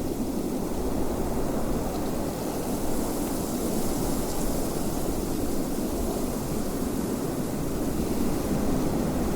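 Wind blowing steadily: a constant rushing noise with no sudden gusts or other events.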